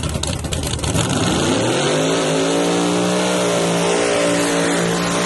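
Drag car engine revving up about a second in, then held at high, steady revs.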